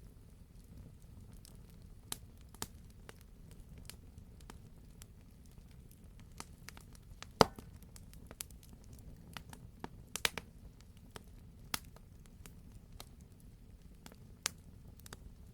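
Wood fire burning in a fireplace: scattered sharp crackles and pops over a low steady rumble of the flames, with one loud pop about halfway through and a quick cluster of pops a few seconds later.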